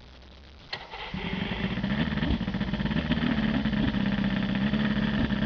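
OMC 125 hp V-4 two-stroke outboard starting with a click about a second in, catching and settling into steady running. It runs on the fuel already in its float bowls, the motor having a failing VRO fuel pump.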